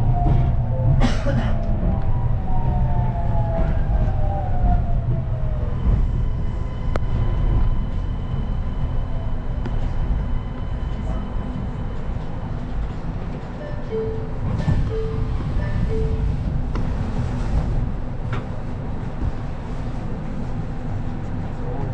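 Kanazawa Seaside Line rubber-tyred automated train running over a steady low rumble, its motor whine falling in pitch over the first several seconds as it slows. Three short, even beeps sound about two-thirds of the way through.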